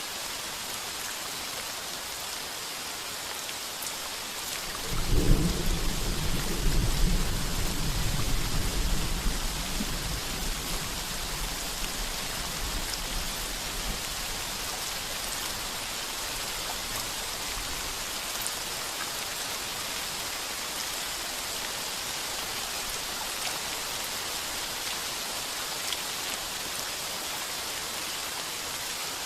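Heavy rain pattering steadily on a tin roof. About five seconds in, a deep roll of thunder breaks in, loudest over its first few seconds, then rumbles away and fades over the next ten seconds or so.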